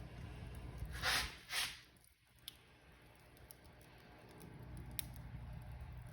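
Wood fire in a fireplace crackling, with a low steady rumble and scattered sharp pops. About a second in come two louder hissing bursts close together. The rumble then dips for a couple of seconds before building back.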